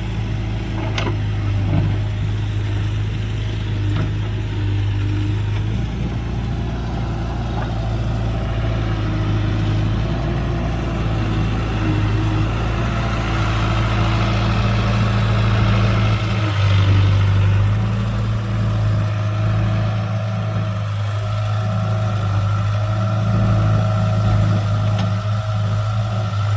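Tractor diesel engine running steadily at a constant speed, a continuous low hum.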